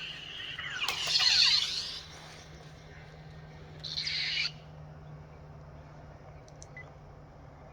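Lightsaber replica playing its soundfont: a low steady hum, with a loud swing whoosh that rises and falls in pitch about a second in and a short bright burst about four seconds in.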